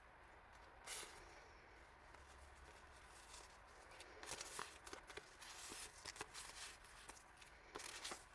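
Faint rustling and small clicks of hands handling packaged paper stationery items: one brief rustle about a second in, then a busier run of rustles and clicks in the second half.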